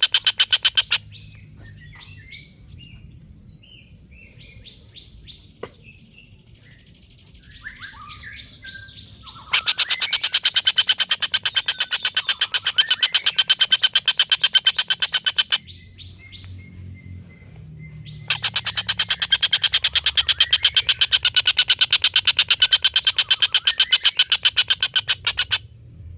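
Stork-billed kingfisher (tengkek buto) giving its long cackling call: fast runs of harsh, rapidly repeated notes, two long bouts of about six and seven seconds. Softer chirps and short trills fill the gaps between them.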